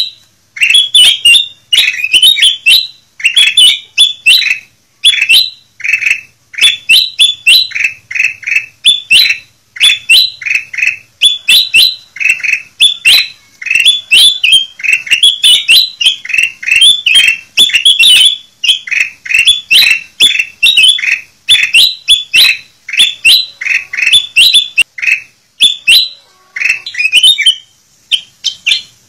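Kutilang emas bulbul singing loudly: rapid, nearly continuous phrases of short, sliding whistled notes, with a brief lull near the end.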